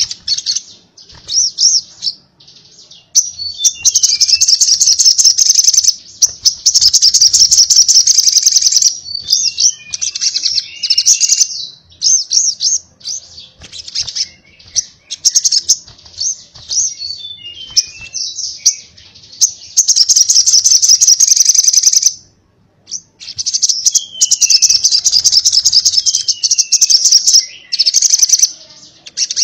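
Crimson sunbird (sogok ontong) singing: a rapid, high-pitched chattering song in long, unbroken bursts of several seconds, with short pauses and a few quick falling notes in between.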